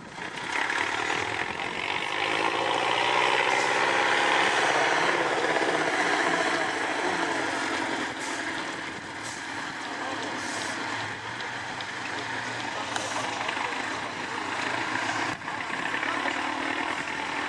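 Off-road trial truck engine running hard under load, swelling to its loudest a few seconds in and then easing off.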